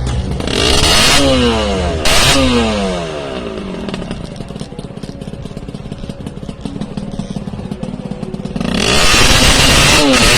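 An off-road vehicle's engine is blipped twice, about a second apart, its pitch falling back after each. It then idles with a rapid, uneven firing beat. From about nine seconds in it is run up hard and stays loud.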